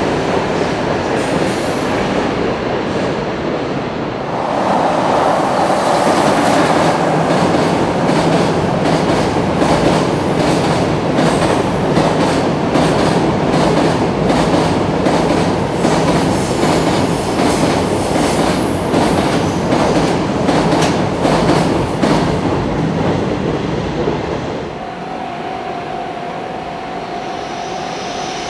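Electric-hauled freight train running past on the track, a steady rumble with the clickety-clack of wagon wheels over rail joints that grows louder about four seconds in. About four seconds before the end it drops to a quieter rumble carrying a steady tone.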